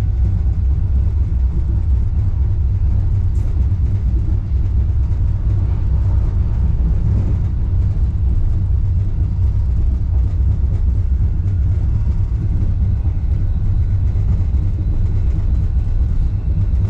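Wuppertal Schwebebahn suspension railway car running, heard from inside the car as a steady low rumble.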